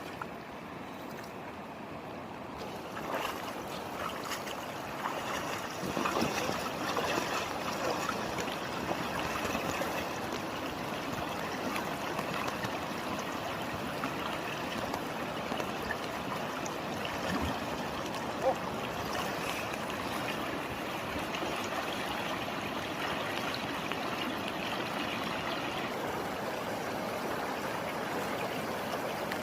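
Rain-swollen river flowing steadily over rocks, getting louder a few seconds in, with one short sharp knock about two-thirds of the way through.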